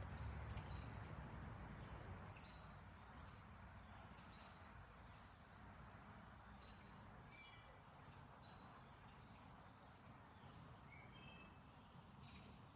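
Near silence: a faint background of insects, with a steady high drone and scattered short, high chirps.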